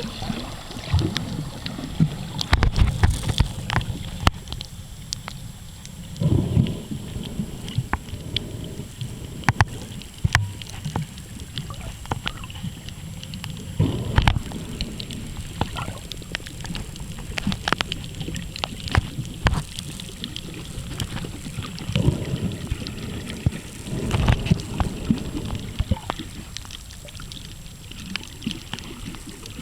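Muffled water sounds picked up by a camera filming underwater: sloshing and gurgling, with scattered short clicks and a low surge swelling every several seconds.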